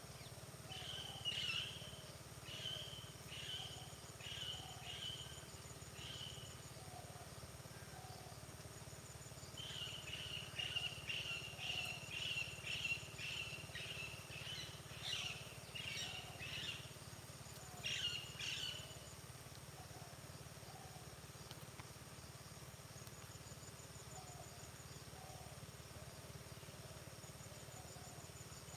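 Birds calling in open farmland: a run of short repeated chirps for the first six seconds, a faster string of chirps from about ten to seventeen seconds in, and a last burst near nineteen seconds, with faint high trills here and there over a steady low rumble.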